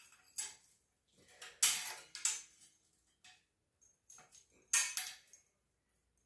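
Pet parrot giving a series of short, harsh squawks, the loudest about one and a half seconds and nearly five seconds in.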